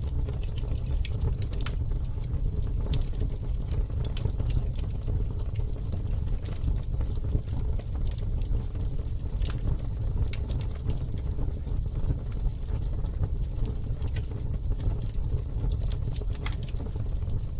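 Campfire crackling: scattered sharp pops and snaps from the burning wood, irregularly spaced, over a steady low rumble.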